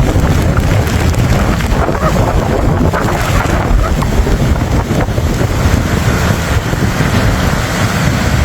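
Storm wind buffeting the microphone: a loud, steady rumble with a rushing hiss over it.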